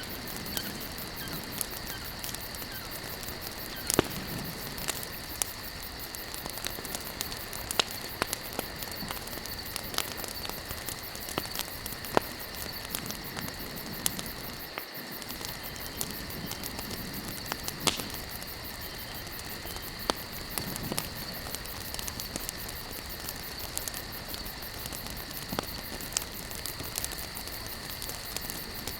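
Campfire of burning wood logs crackling, with irregular sharp pops over a steady hiss; a few pops stand out louder. A steady high-pitched tone sits under it throughout.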